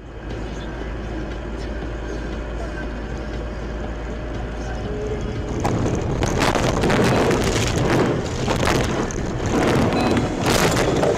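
Car dash-cam audio: steady road and engine rumble, louder and rougher from about six seconds in.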